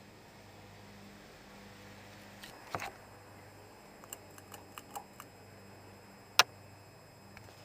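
FASCO Charleston stack-motor ceiling fan running in reverse with a steady low motor hum. Scattered clicks and ticks sound over it, the loudest a single sharp click about six and a half seconds in.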